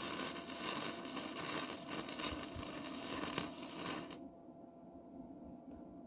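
Welding arc crackling and sizzling in one continuous bead, stopping abruptly about four seconds in.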